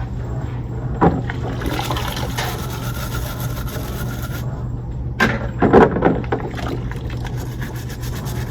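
A car's steady low rumble heard from inside the car, with a few knocks and handling noises, one about a second in and a pair around five to six seconds in.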